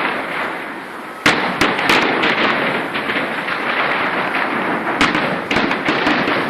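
Fireworks going off: a continuous crackle, with a sharp, loud bang about a second in and several more bangs after it.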